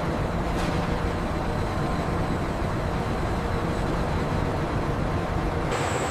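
Steady industrial machinery noise: a low rumble under an even hiss, with a thin high whine joining it near the end.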